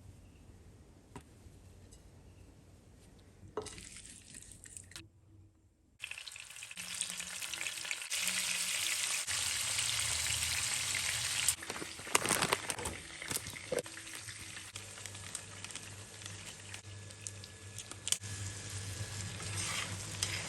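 Food sizzling in a hot frying pan, a steady hiss that starts suddenly about six seconds in after a faint, quiet opening, with a few clicks of stirring.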